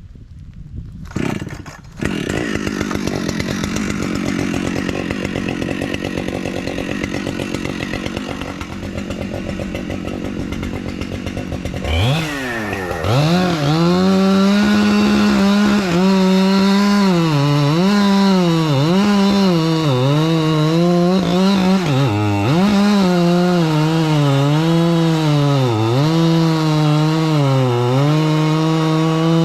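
Chainsaw running, first at low speed, then about twelve seconds in opening up to full throttle and cutting into a pine trunk, its pitch dipping and recovering again and again as the chain bites under load.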